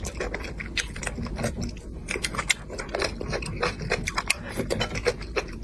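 A person chewing a mouthful of spicy braised fish close to a clip-on microphone: a rapid, irregular run of sharp clicks and mouth smacks.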